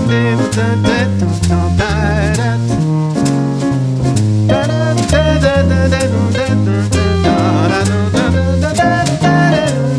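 Jazz trio playing an instrumental swing passage: piano chords and lines over a bass line stepping about two notes a second, with drum kit cymbals ticking steadily.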